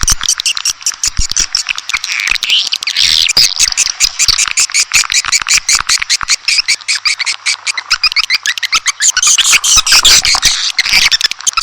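Edible-nest swiftlet calling-sound recording: a dense, unbroken chorus of rapid high-pitched swiftlet chirps and twitters, of the kind played to lure swiftlets into a nest house.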